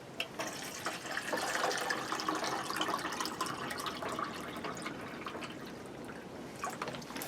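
Water pouring from a large jug into a kettle as it is refilled. It starts just after the beginning and eases off near the end.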